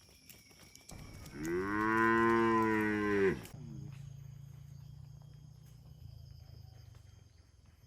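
A cow mooing once: a loud call starting about a second in and lasting about two seconds, dropping in pitch as it breaks off. It trails into a low hum that fades away.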